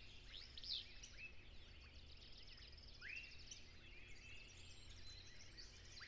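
Faint bird calls: scattered high chirps and, about three seconds in, a short whistled note that rises and then holds, over a low steady background hum.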